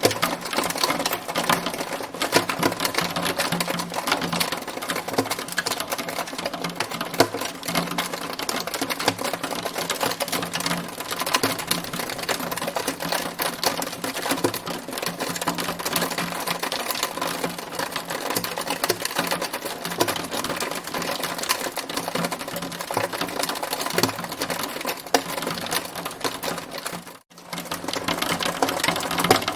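Hailstones pelting a hard surface in a dense, steady, rapid clatter, with a brief drop-out near the end.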